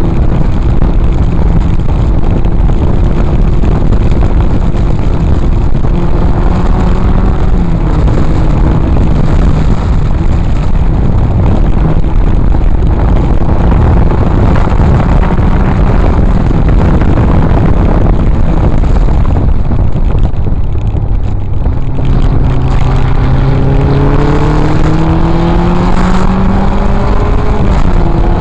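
Triumph TR4A race car's four-cylinder engine heard from the open cockpit, running hard at high revs under heavy wind noise. About three-quarters of the way through the engine note drops as the car slows for a corner, then rises steadily under acceleration, with a gear change near the end.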